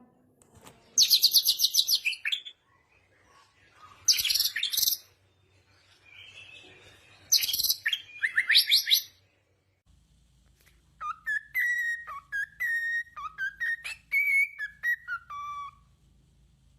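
Songbirds calling: three short bursts of rapid, high-pitched chirping trills. Then a different bird gives a run of short whistled notes that step up and down in pitch.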